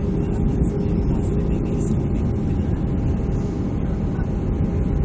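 Steady low rumble of an Airbus A320's engines and airflow heard inside the passenger cabin, with a couple of steady hum tones over it.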